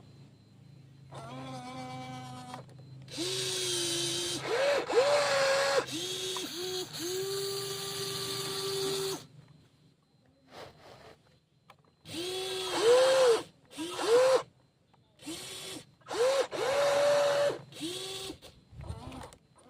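Small electric gear motors of a WL16800 radio-controlled toy excavator whining in stop-start bursts, each spinning up with a rising pitch, holding steady and then cutting off, with a pause of a few seconds near the middle.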